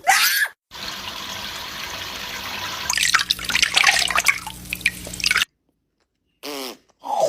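Water running steadily, turning into heavier splashing about three seconds in, then stopping suddenly after about five and a half seconds. A brief loud sound comes just before it, and short pitched calls come near the end.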